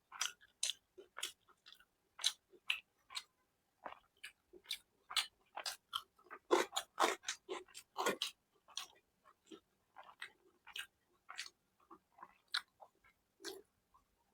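Close-miked chewing and mouth sounds of a person eating: short wet smacks and clicks, a few a second, busiest a little past the middle.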